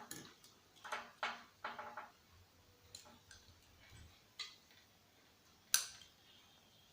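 Scattered light clicks and clinks of hand tools and small parts being handled while taking apart a CRT television. There is a small cluster of clicks about a second in and a sharper, louder click near the end.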